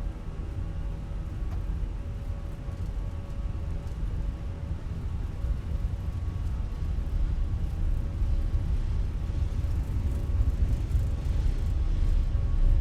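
Steady low rumble of jet airliner engines, growing gradually louder.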